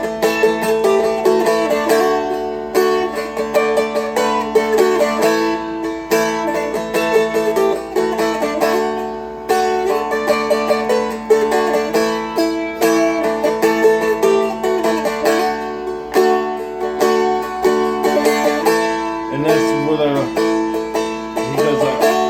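Seagull Merlin M4, a four-string fretted strumstick, strummed in the key of A. The chords alternate between A and D over a steady drone note, with a few quick runs between strums.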